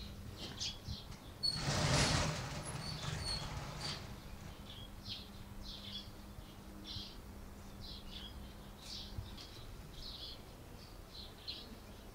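Small birds chirping, a string of short high notes about every half second, with a brief loud rush of noise about two seconds in. A faint steady low hum lies under them and stops around nine seconds in.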